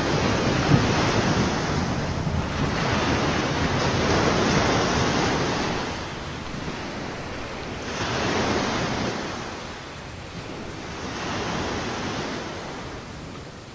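Ocean waves surging and breaking in slow swells every few seconds, with wind. The sound gets quieter toward the end.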